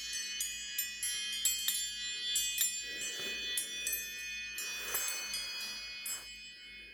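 Old iPhone ringtone: a cascade of high, bell-like chime notes struck in quick succession and ringing over one another, fading out near the end.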